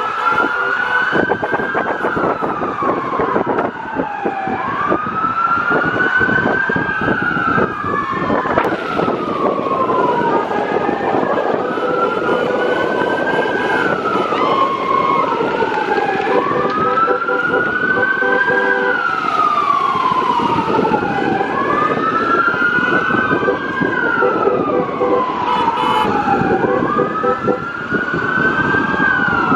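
Several emergency-vehicle sirens wailing together in a slow rise and fall, each cycle about three to four seconds, the sirens overlapping out of step, over a heavy rumble of traffic noise.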